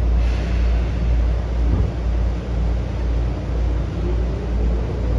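Inside a Tokyu 8500 series train with Hitachi chopper control as it starts from a station: a steady low rumble with a slow pulse and one brief clunk a little under two seconds in. Near the end the chopper controller's whine begins to rise as the train starts to pull away.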